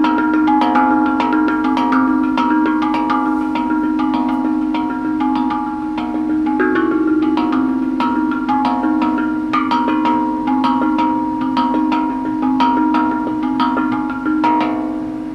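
Tuned percussion played in quick, dense runs of struck ringing notes, over a sustained low drone that shifts pitch about seven seconds in.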